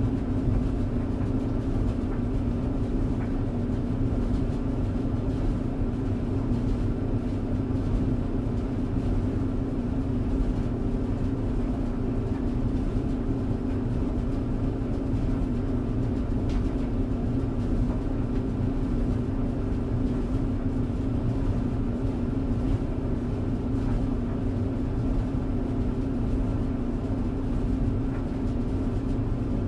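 Clothes dryer running steadily: a continuous low rumble with a steady hum, unchanging throughout.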